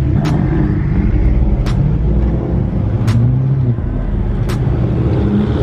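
Car engines running at close range with a deep, steady rumble. A sharp tick repeats about every second and a half over it.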